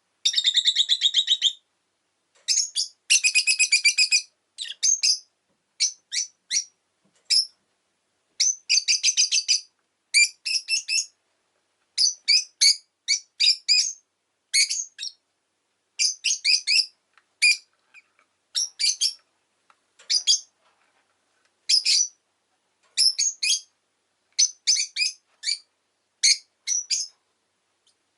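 Rosy-faced lovebird chirping in quick bursts of rapid, high-pitched notes, each burst lasting a second or less, with short silent gaps between them. The longest, densest chatter comes in the first few seconds.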